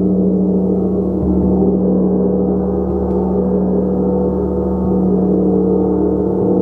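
A gong ringing in a steady, sustained wash of many overlapping tones, with a strong low hum underneath and no break.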